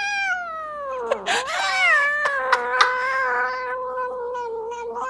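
Cat yowling in long drawn-out calls: the first slides down in pitch, and a second starts about a second in, rises and falls, then holds at a steady pitch. A few sharp clicks are heard during the second call.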